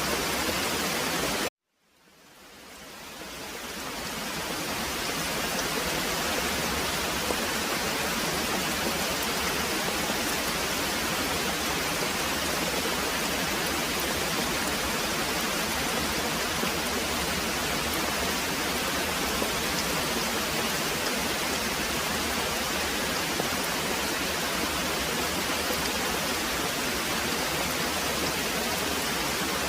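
Very heavy rain pouring steadily, an even hiss. About a second and a half in it cuts out suddenly to silence and fades back up over a few seconds.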